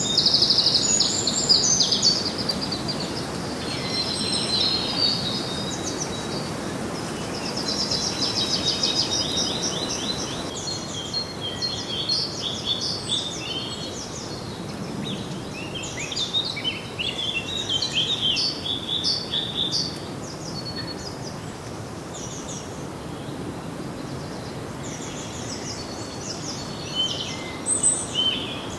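Several songbirds singing and chirping together, rapid high chirps and trills over a steady outdoor hiss, busiest in the middle and thinning out toward the end.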